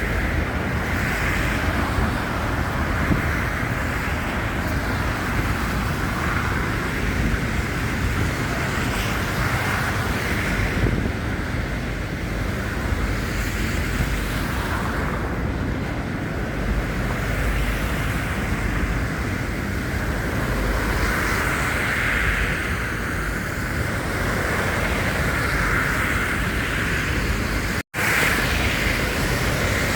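Steady city traffic noise with wind buffeting the phone's microphone, the traffic swelling and fading in slow waves. The sound drops out for an instant near the end.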